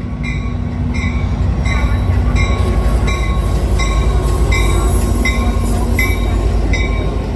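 Diesel passenger locomotive (Amtrak F59PHi) rumbling at the platform while its bell rings steadily, about three strikes every two seconds.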